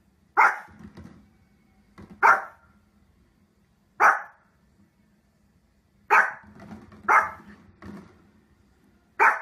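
Pomeranian barking: six sharp barks spaced about one to two seconds apart, with softer barks in between some of them.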